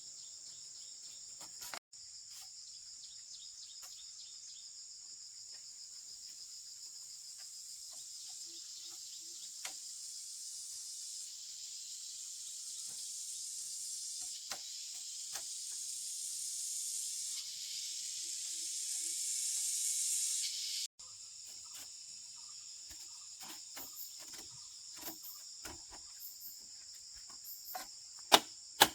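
Steady high chirring chorus of crickets and other insects, with scattered small clicks. A hiss grows louder through the middle and cuts off suddenly about two-thirds of the way in, and a couple of sharp knocks come near the end.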